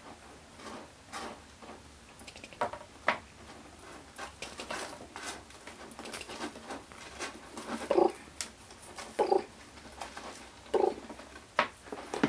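Kittens playing: scattered light taps, scuffles and scrabbling of paws and toys on a hard floor, with a few short louder noises in the last third.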